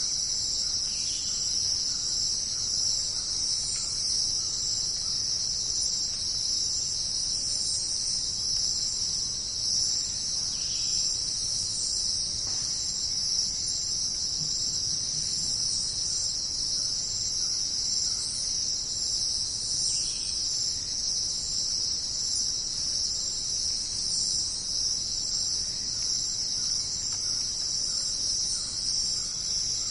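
Dense, steady chorus of insects in a jungle soundscape, a continuous high shrill with faint lower calls now and then.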